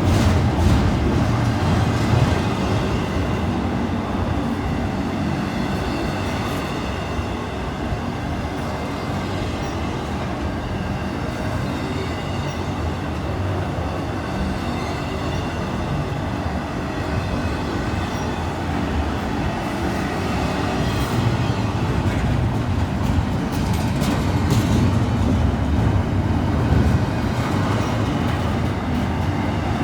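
Freight train rolling by: a steady rumble of steel wheels on rail with some clicks over the joints, growing louder in the last third.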